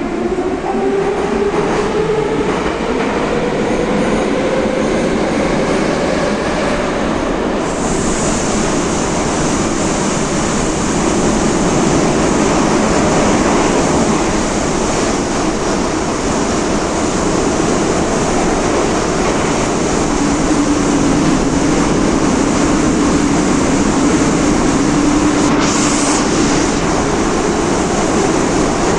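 Metro train heard from inside the carriage as it pulls away: the traction motors whine, rising in pitch over the first several seconds as it accelerates, then it runs on with a loud steady rumble and rail noise, and a hiss joins about eight seconds in.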